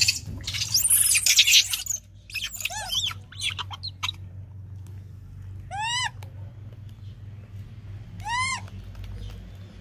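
Baby macaque giving short, high calls that rise and fall in pitch, a few around three to four seconds in and two clear ones near the middle and near the end. These follow about two seconds of loud rustling noise at the start.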